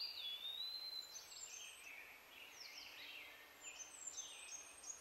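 Faint birdsong: a drawn-out whistled note sliding down in pitch in the first second, then many short high chirps.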